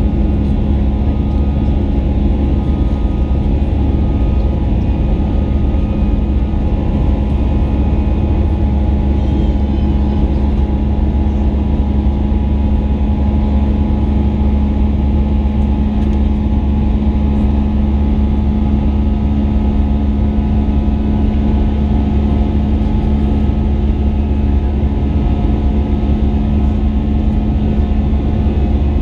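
Airbus A320 cabin noise heard from a window seat: a loud, steady drone of the engines and airflow, with a deep rumble and a steady hum, unchanging throughout.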